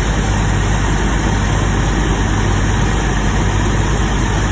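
Freshly installed car engine idling steadily on its first run, still warming up.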